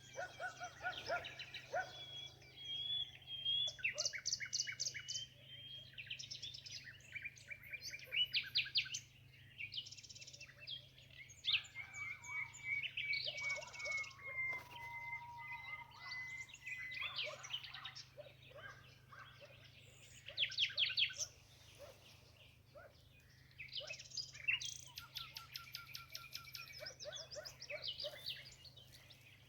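Several small birds singing and chirping at once: rapid trills and chirps, with a few long whistled notes that slide slowly down in pitch, over a faint steady low hum.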